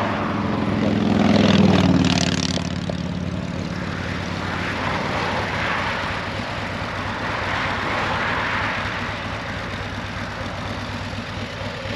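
Road traffic going by: one vehicle's engine swells, passes with its pitch dropping about a second and a half in, and fades. More vehicles follow, their tyre and road noise rising and falling twice.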